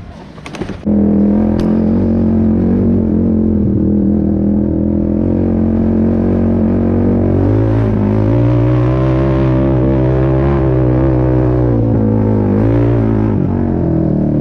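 A few clicks, then about a second in a quad's engine comes in loud and runs steadily under load, its pitch shifting up and down a few times.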